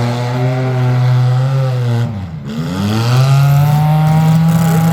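Demolition derby car engine running hard. About two seconds in the revs drop sharply, then climb back and hold at a higher, steady pitch.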